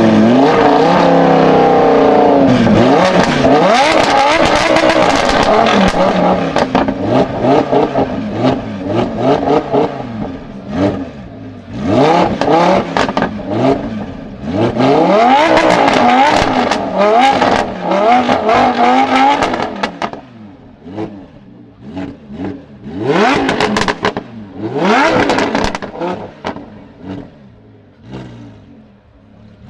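Lamborghini Huracán LP610-4's naturally aspirated V10 through a Frequency Intelligent (Fi) aftermarket exhaust, revved hard again and again, its pitch sweeping up and falling back. Sharp crackles and pops from the exhaust come between the revs as the engine comes off throttle, thickest in the last third.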